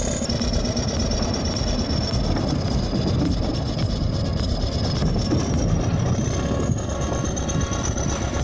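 Heavy diesel machine running steadily under load, with a thin high whine over the engine noise.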